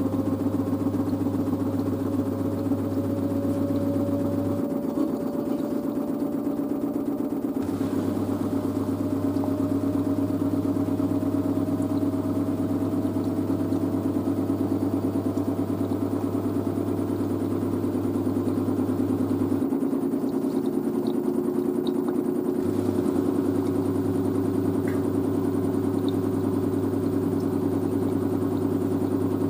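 LG DirectDrive washer dryer's direct-drive motor whining steadily as the drum spins, its pitch rising slowly. A low hum cuts out twice, for about three seconds each time.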